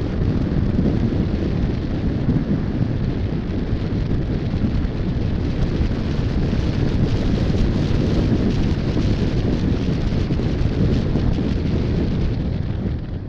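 Heavy wind buffeting on the microphone of an action camera mounted on a moving motorcycle: a loud, steady, low rumble of noise that covers any engine sound.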